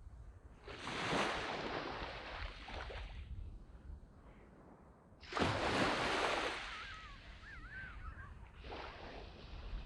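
Small waves breaking and washing up on a sandy beach, coming in three surges, each swelling and then fading.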